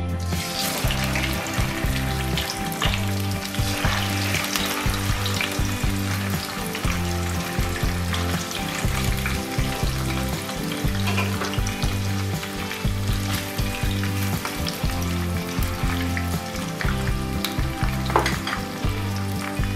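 Whole climbing fish shallow-frying in hot oil: the sizzle starts suddenly as the first fish is lowered into the pan and runs on steadily, with scattered pops and spatters of oil.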